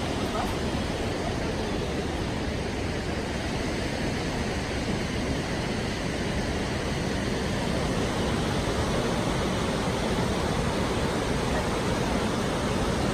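Steady rushing of a large waterfall on the Krka River, an even wash of falling water without a break.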